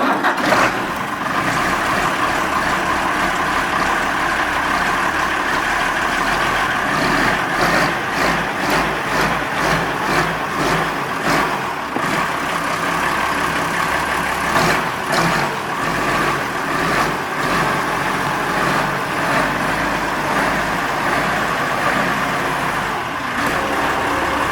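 Deutz-Allis 7120 tractor's turbocharged diesel engine running steadily, just after being started. It cuts off suddenly at the end.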